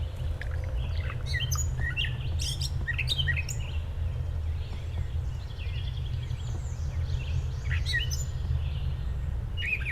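Gray catbird singing: a jumbled run of short, quick, varied chirps and squeaky notes in loose clusters, softer in the middle, over a steady low rumble.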